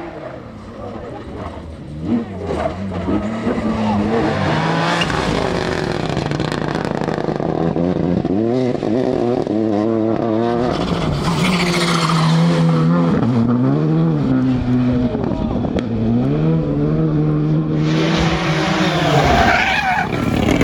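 Rally car engine revving hard through the gears, its pitch climbing and then dropping at each shift many times over, with tyre skidding noise underneath. There is a sharp bang about two seconds in.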